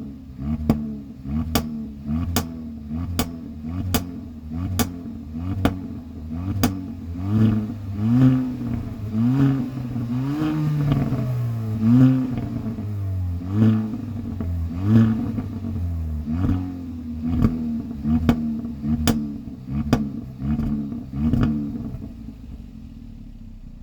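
2020 Kia Forte GT's 1.6-litre turbocharged four-cylinder with its stock exhaust, revved in repeated short blips with sharp pops and a few bigger revs in the middle. It settles to a steady idle near the end.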